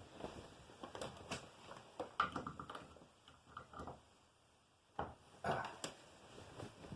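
Faint scattered clicks and light knocks of handling, a vacuum cleaner's cord and plastic parts being taken off and moved about, with a sharper knock about five seconds in.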